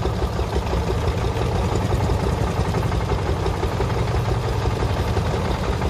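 Tractor engine running steadily, a low, even chugging.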